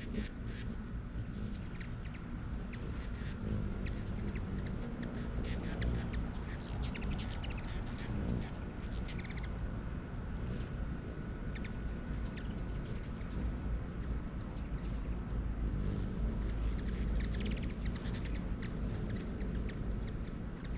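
An insect chirps in a fast, even, high-pitched pulse of about five beats a second. It stops shortly after the start, comes back briefly, and runs steadily again from about two-thirds of the way through. Short, scattered high bird chirps come in during the first half, over a steady low background rumble.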